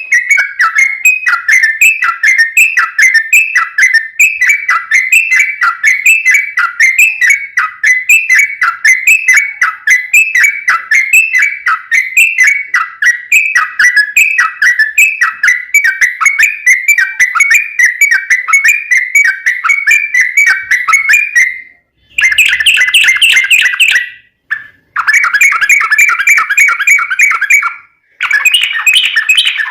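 Yellow-vented bulbul (trucukan) singing a long, fast run of short repeated chattering notes without pause, then broken by a few short gaps near the end.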